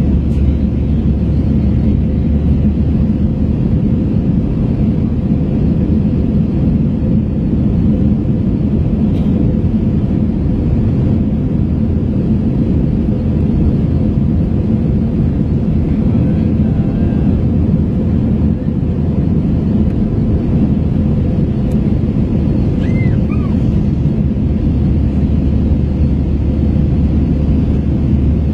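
Steady cabin noise inside an Airbus A321 jet in flight: a low, even drone of engines and airflow, with a faint steady hum.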